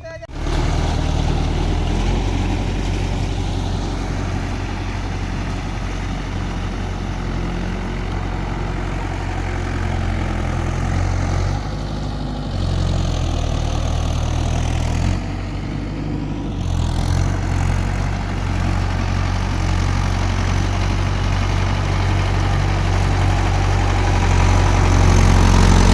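Tractor diesel engine running steadily, its note dipping briefly twice and rising again, while the tractor works a wet field on cage wheels.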